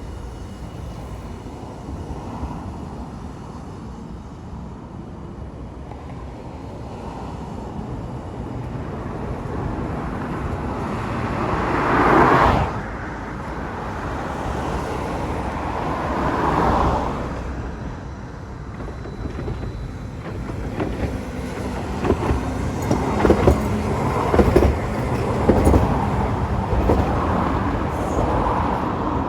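A train running, a steady low rumble with two swelling rushes about twelve and sixteen seconds in, then a run of sharp knocks in the last several seconds.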